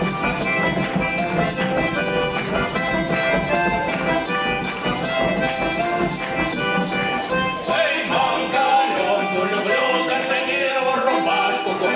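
Russian folk ensemble music: held instrumental chords over a steady beat, then about two-thirds of the way through the beat drops out and wavering singing voices carry on.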